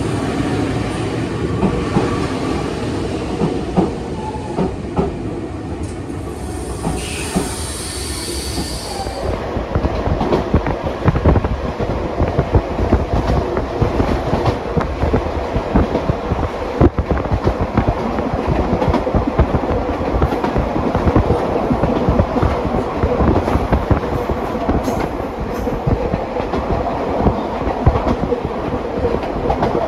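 Train running on the rails, with steady running noise and wheels knocking over rail joints throughout. About seven seconds in there is a brief high-pitched hiss or squeal lasting a couple of seconds.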